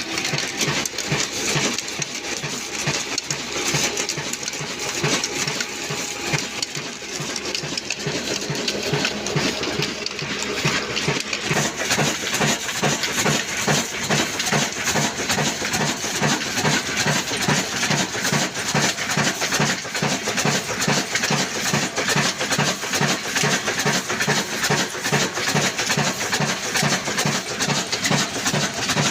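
Old black single-cylinder stationary diesel engine running a flour mill (aata chakki), a steady rhythmic beat of firing strokes; about twelve seconds in the beat becomes louder and more even.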